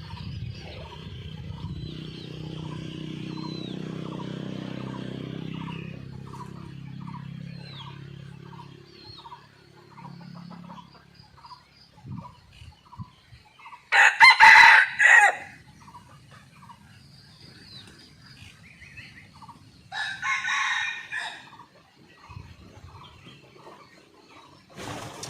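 Red junglefowl rooster crowing: one loud short crow about halfway through and a fainter one some six seconds later. Faint regular ticking, about two a second, runs beneath during the first half.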